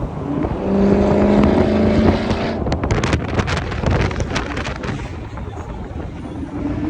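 Car engine running at speed with wind buffeting the microphone: a steady engine note held for a second and a half, then a run of sharp crackles over the rumble.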